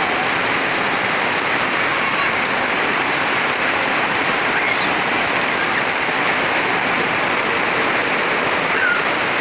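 Heavy rain falling steadily on a paved lane, a dense, even downpour with no let-up.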